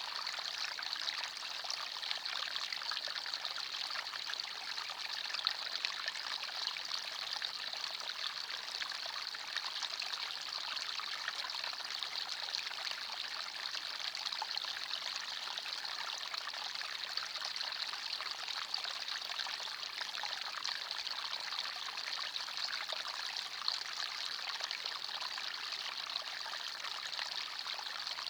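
Small forest stream running, a steady trickling and babbling of water over stones.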